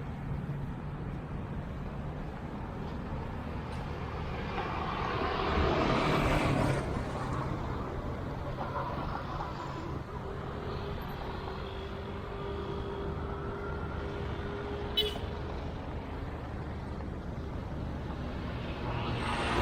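Street traffic on a city beach road: engines running steadily, with one vehicle passing close and louder about six seconds in and a single sharp click near fifteen seconds.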